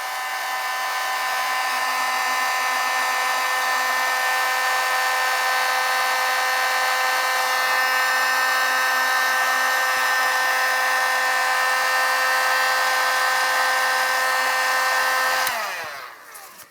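Electric heat gun running steadily, a fan-motor whine over a blowing hiss, while shrinking heat-shrink tubing over wire splices. Near the end it is switched off and the whine drops in pitch and dies away.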